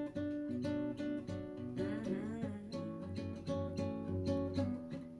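Acoustic guitar strummed in a steady rhythm, chords ringing between the sung lines of a song.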